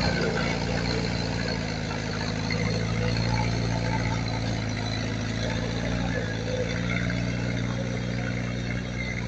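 Diesel engine of heavy earthmoving equipment running steadily at an even speed.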